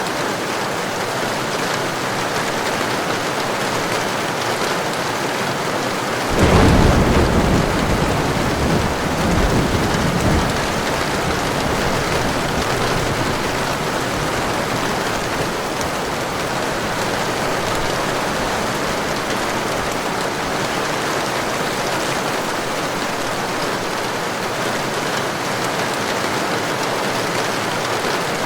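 Heavy rain falling steadily, with a clap of thunder breaking in about six seconds in and rumbling away over the next few seconds.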